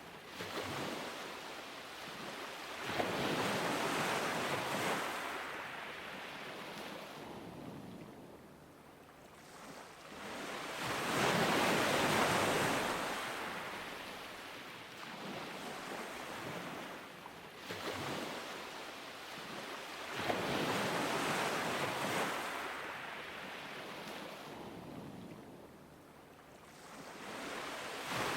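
Ocean waves breaking and washing up a beach, each surge building to a broad hiss and then fading, about four swells in under half a minute. A little wind noise on the microphone.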